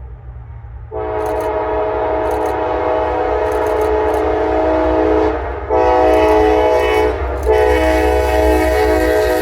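Locomotive multi-chime air horn blowing a chord over the rumble of the passing train: a long blast, a short one, then another long one that carries on. Together with the long blast just before, this is the long-long-short-long grade-crossing signal.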